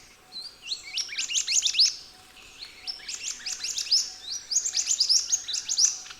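Orange minivet calling: quick runs of short, high, rising whistled notes, in bursts lasting a second or more.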